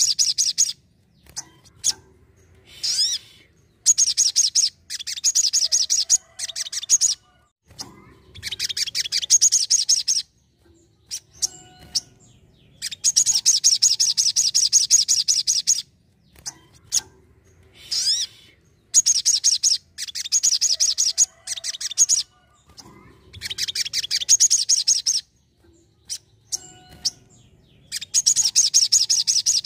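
Sogon sunbird singing in repeated bursts of rapid, high-pitched trilling chatter, each burst a couple of seconds long, with short pauses between them.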